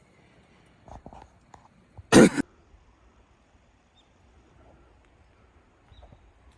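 A person coughing once, short and loud, about two seconds in, after a fainter short sound about a second in.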